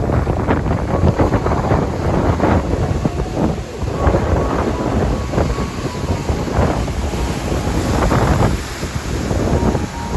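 Sea waves and strong wind, with gusts buffeting the microphone in an uneven, rumbling rush.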